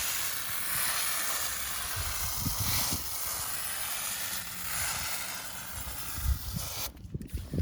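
Aerosol can of foaming coil cleaner spraying in a steady hiss, cutting off suddenly near the end, with a few low bumps.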